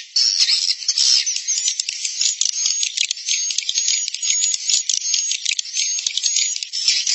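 Edible-nest swiftlet colony calls: a dense, continuous chatter of rapid clicks and high twittering chirps, with a few short high whistles in the middle. This is a swiftlet roosting-call lure recording, the kind played from a swiftlet house to draw the birds in to roost.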